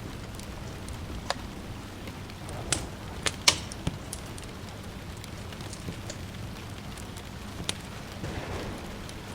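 Wood fire crackling in a fireplace, with a scattering of sharp pops, the loudest about three and a half seconds in, over a steady hiss of rain.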